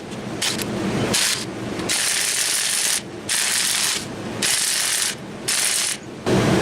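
A ratcheting wrench working bolts in repeated short bursts, each about half a second to a second long with brief pauses between, as the clutch, pressure plate and flywheel are unbolted from the engine.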